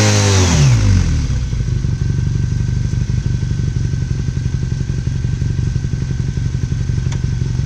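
Yamaha XTZ 750 Super Ténéré's parallel-twin engine falling from high revs to idle within about a second as the burnout ends, then idling with a steady beat.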